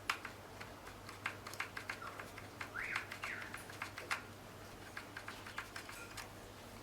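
Scattered light clicks and taps of small plastic vacuum-cleaner parts being handled and fitted, with a faint short chirp or squeak about three seconds in.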